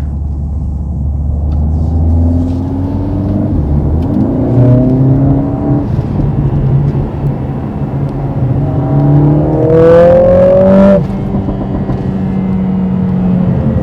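Mercedes-AMG CLA 45 S's turbocharged 2.0-litre four-cylinder engine accelerating hard in Sport Plus mode, its pitch climbing several times as it pulls through the gears, the strongest climb about ten seconds in, ending abruptly about a second later. Exhaust crackles follow as it lets off.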